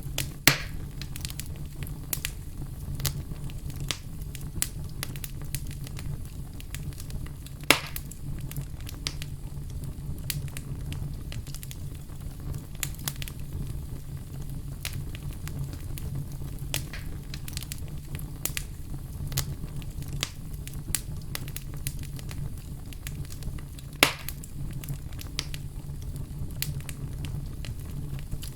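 Wood fire crackling: a steady low rumble with frequent small crackles and three much louder pops, one near the start, one about a quarter of the way in and one near the end.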